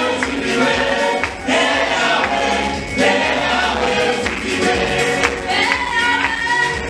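Gospel choir singing with live band accompaniment and a tambourine keeping the beat.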